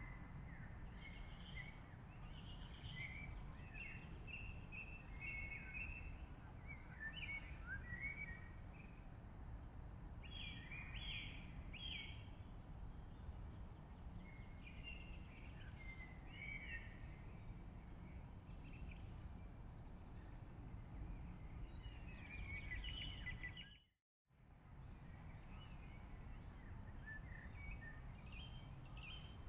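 Faint birdsong, with many short chirping calls, over a steady low rumble of outdoor background noise. The sound cuts out completely for a moment near the end.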